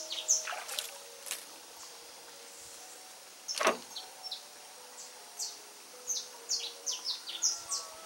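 Small birds chirping in quick runs of short, high notes that each drop in pitch. About halfway through comes one louder call that sweeps down from very high to low.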